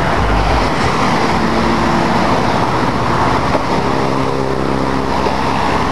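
Military helicopter hovering low, its rotor and engine noise a loud, steady drone with a low hum.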